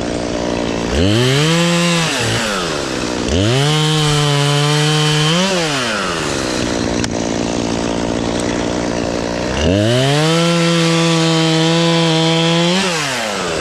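Two-stroke chainsaw cutting tree limbs: it idles, then runs up to full throttle three times, holding each cut for one to three seconds before dropping back to idle.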